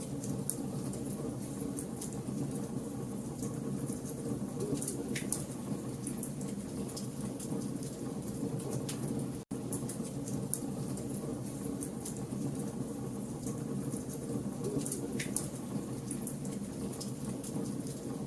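Burning logs in a campfire: a steady low rumble of flame with frequent sharp crackles and pops. The sound cuts out for an instant about halfway through.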